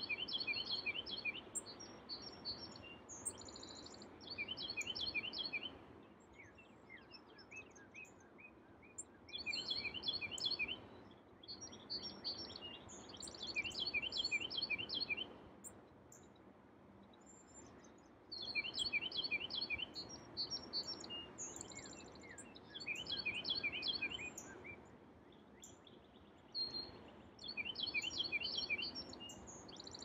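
Songbirds singing in repeated bouts of quick, high chirping notes, several phrases a few seconds long with short pauses between, over a soft rushing background.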